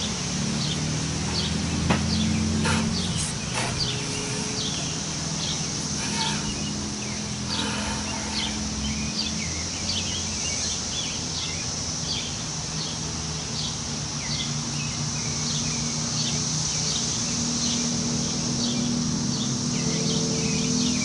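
Wind in the trees, a steady low rush, with short bird chirps repeating throughout and a steady high hiss above them.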